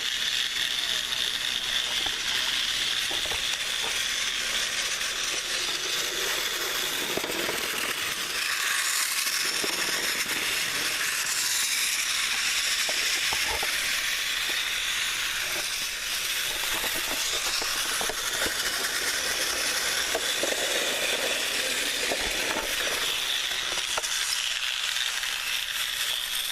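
Several battery-powered TrackMaster toy trains running together on plastic track: a steady high whirring hiss from their motors and gears, with faint scattered clicks.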